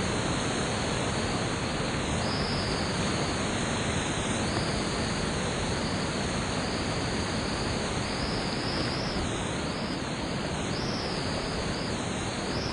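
Steady rushing of creek whitewater rapids.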